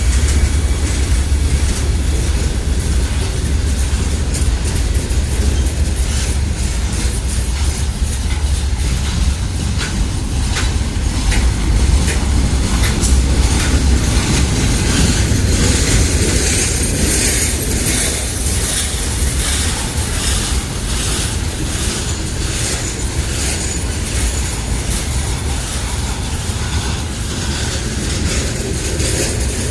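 Norfolk Southern freight train rolling past: a steady heavy rumble, with repeated clicks of the wheels over rail joints through the middle.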